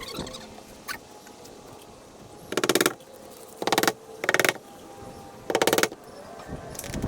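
Power drill run in four short bursts, each a rapid buzzing rattle lasting about a third of a second.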